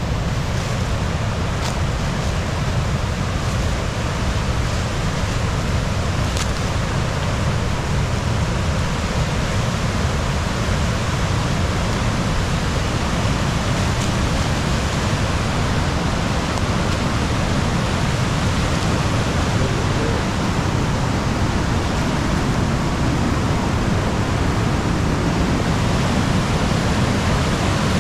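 Rain-swollen waterfall in very high flow: a loud, steady rush of water.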